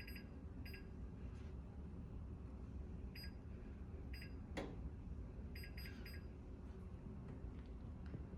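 Oven's electronic timer beeping as it is set: short high beeps, some single and some in quick runs of several. There is one sharp click about halfway through, over a low steady hum.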